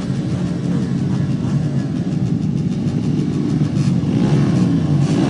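Stock underbone motorcycles racing with their engines at high revs, the engine note climbing about four seconds in.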